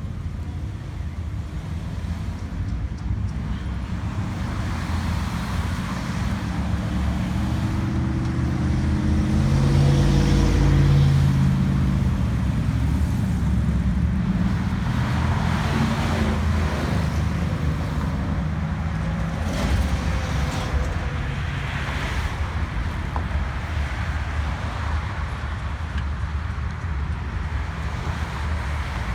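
A car engine running close by. Its pitch and loudness climb to a peak about ten seconds in, then ease back to a steadier run.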